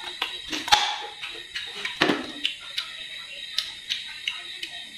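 Close-miked chewing of crisp raw guava: irregular wet crunches and lip smacks, the loudest about three-quarters of a second and two seconds in.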